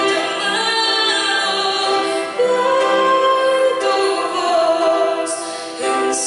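A woman singing a Christian worship song over musical accompaniment, holding long notes.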